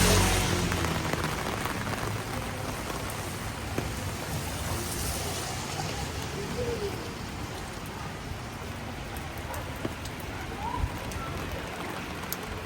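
Steady rain falling on street surfaces, with scattered individual drops ticking close by. A passing vehicle fades away over the first second or two.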